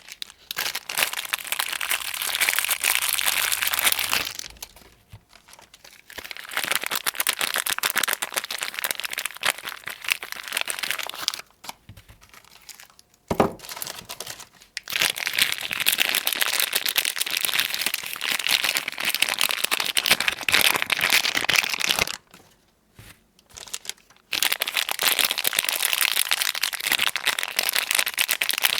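Soap packaging being crinkled and unwrapped close to the microphone: long stretches of dense crackling with a few short pauses and a sharp click about halfway through.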